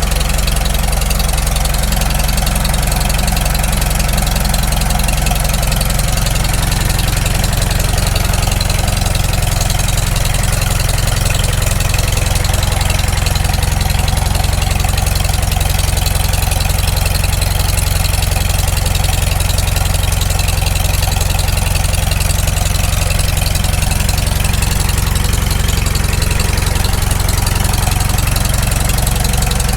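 Farmall Super M's four-cylinder gasoline engine idling steadily on its first run after a full rebuild, still cold.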